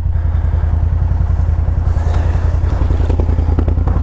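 ATV engine running steadily, with a few light knocks and clatter near the end.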